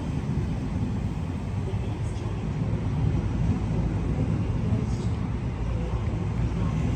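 Electric passenger train running along the platform with a steady low rumble; the wheel squeal of the moment before has died away.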